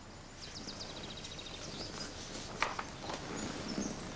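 Faint outdoor ambience with a bird giving a quick run of high, evenly spaced chirps about half a second in, then a soft click about two and a half seconds in.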